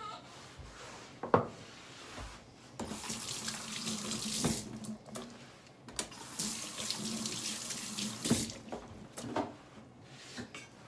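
Water running and splashing, as from a tap, in two spells of about two seconds each. A sharp knock comes about a second in, and a few lighter knocks follow.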